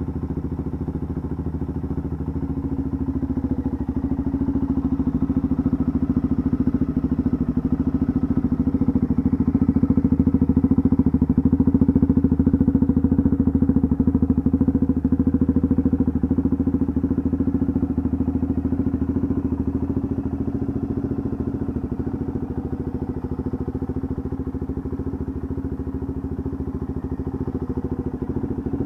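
Suzuki DRZ400's single-cylinder four-stroke engine idling steadily, with a fast, even exhaust beat through a muffler whose baffles have been removed.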